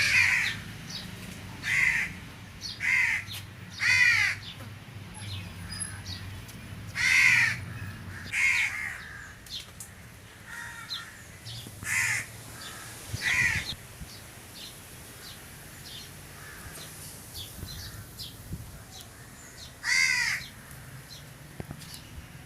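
A bird calling repeatedly, about nine loud, short calls at uneven gaps of one to several seconds. Faint chirps from smaller birds and a low steady hum run underneath; the hum fades about halfway through.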